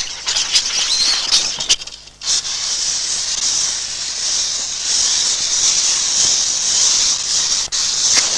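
Crackling for about two seconds, then a steady high hiss, like a burning fuse sputtering and hissing.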